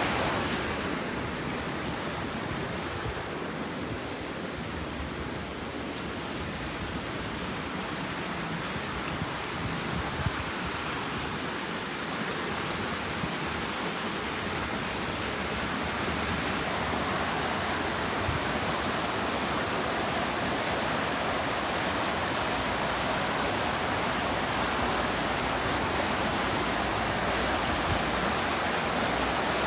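Steady rush of flowing water, a stream or waterfall, continuous and even, growing slightly louder about halfway through.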